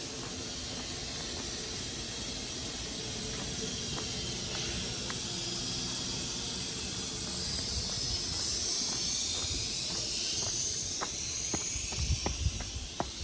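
Nankai 2200-series train running, heard from inside the passenger car: a steady low rumble with a high hiss that swells and wavers through the middle, then a run of sharp clicks and knocks near the end.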